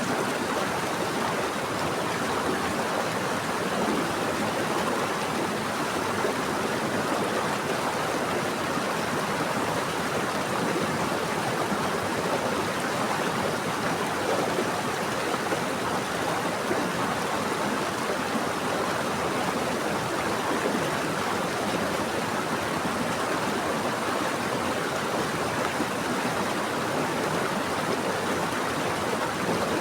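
Running water of a stream flowing over rocks, a steady rushing and gurgling that doesn't let up.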